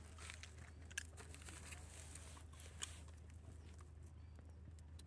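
Faint low hum with a few isolated sharp clicks, one about a second in and another near the three-second mark.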